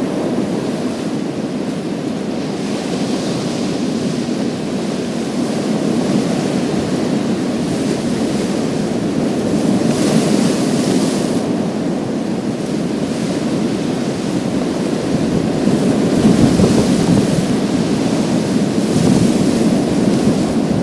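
Sea waves breaking and washing over a pebble beach: a continuous low rush of surf, with surges of higher hiss every few seconds as the water runs up through the stones.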